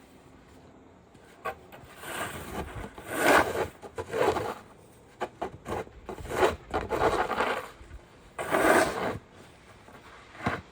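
A run of short, irregular scraping and rubbing noises, each lasting well under a second, with a sharp click about a second and a half in and another near the end.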